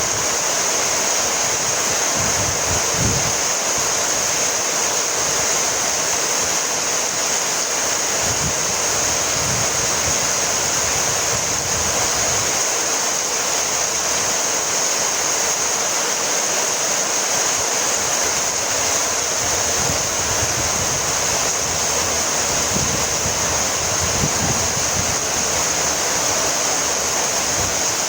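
Heavy rain falling steadily, a continuous dense hiss of drops with no let-up.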